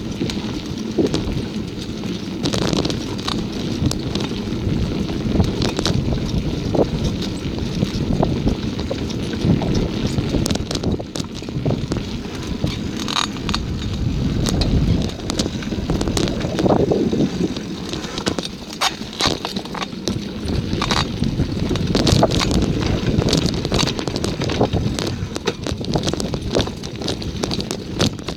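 Bicycle ride heard from the rider's own microphone: steady wind buffeting and tyre rumble, with frequent clicks and rattles from the bike.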